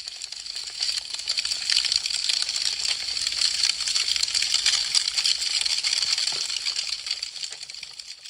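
Wood fire crackling: a dense run of quick, sharp pops and snaps from burning branches, swelling in at the start and fading away near the end.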